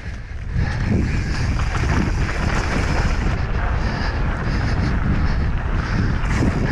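Wind buffeting the onboard camera's microphone as a low, steady rumble, with constant short clattering over it.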